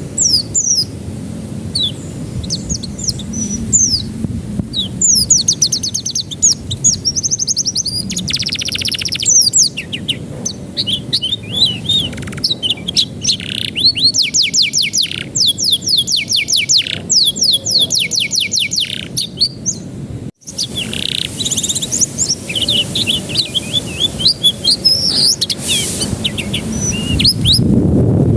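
Domestic canary singing a long, varied song of rapid rolling trills and quick rising and falling whistled notes, with a brief break about twenty seconds in.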